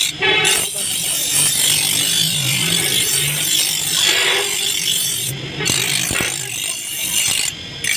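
Hand abrasive work on an old sickle: long rasping strokes of filing or sanding, with brief pauses between passes about five and seven and a half seconds in.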